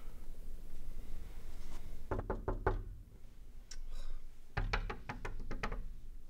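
Knuckles knocking on a wooden apartment door: two rounds of quick knocks, a couple of seconds apart.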